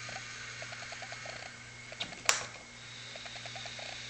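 Chirping in short quick trills that repeat about once a second. A single sharp click sounds a little past two seconds in.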